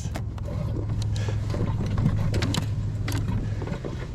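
Irregular clicks and knocks of fishing gear being handled in a kayak, over a steady low rumble of wind on the microphone.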